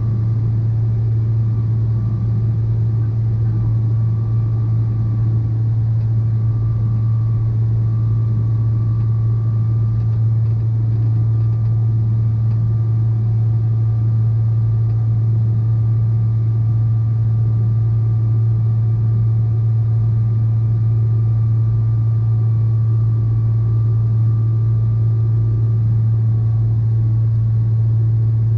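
Boeing 777-300ER's GE90 engines running steadily: a loud, even, deep hum with a faint steady whine above it, holding level throughout.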